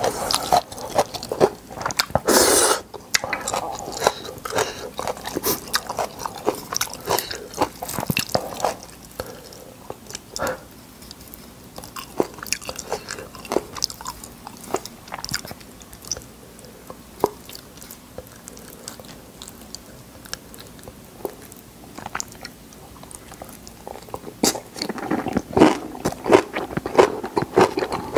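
Close-miked chewing and biting of spicy instant noodles and napa cabbage kimchi: wet mouth sounds and crunching crackles, with a short loud burst about two seconds in, quieter in the middle and louder again near the end.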